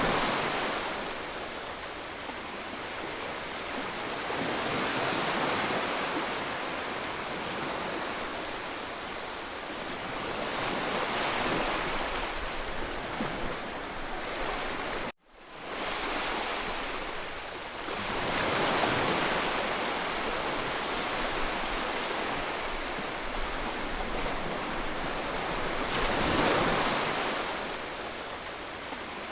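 Sea waves breaking and washing ashore, the surge swelling and fading every five to eight seconds. There is a split-second break in the sound about halfway through.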